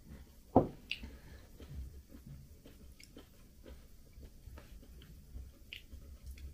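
A ceramic mug set down on the table with one sharp knock about half a second in. After it, close-up chewing of a soft muffin, with small scattered mouth clicks.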